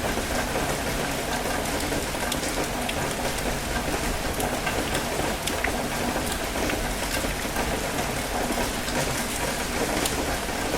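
Steady rain falling, a constant hiss with many single drops ticking close by, over a low steady rumble of surf on a rocky shore.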